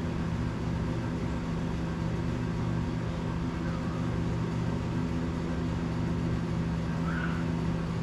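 A steady mechanical hum with a low, even drone, with a couple of faint short sounds about seven seconds in.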